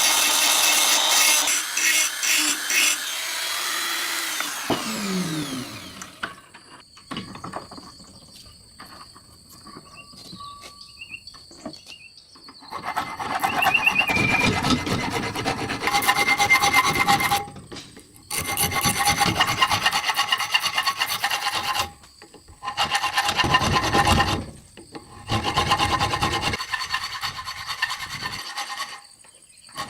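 Steel knife blade being abraded in long passes: a loud scraping stretch at the start, a quieter pause, then four passes of about four to five seconds each with short breaks between them.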